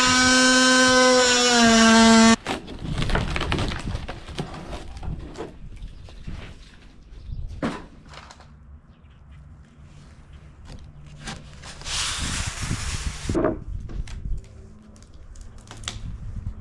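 A power tool's motor runs with a steady whine and cuts off abruptly about two seconds in. After it come scattered knocks and clatter, with a hissing burst lasting about a second and a half near the end.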